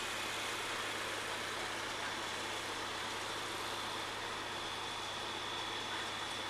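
Heavy truck engine idling steadily, with a constant low hum and no revving.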